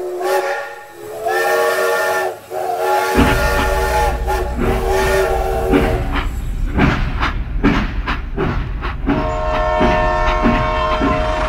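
Toy steam train sound effects: a series of whistle blasts, then a rhythmic chugging clatter as the train runs along its plastic track, with one more long whistle near the end.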